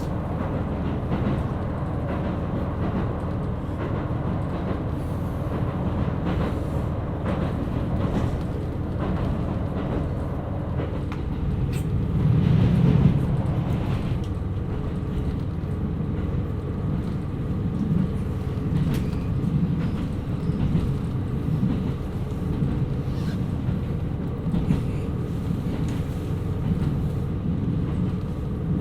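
KiHa 127 series diesel railcar running along the line: a steady low rumble of the diesel engine, wheels and rails, swelling louder about halfway through.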